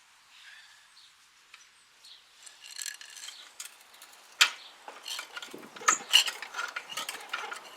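Metal clicking, rattling and knocking as a motorcycle engine is jacked up and worked into its frame. It starts about two and a half seconds in, with sharp knocks about four and a half and six seconds in.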